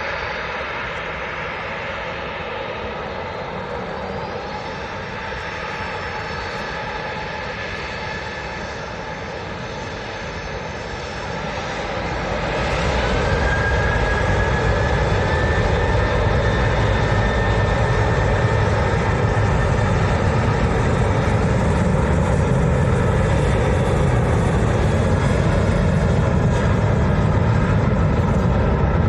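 Airliner jet engines running steadily. About twelve seconds in they grow much louder, with a whine that rises and then holds, as the engines spool up.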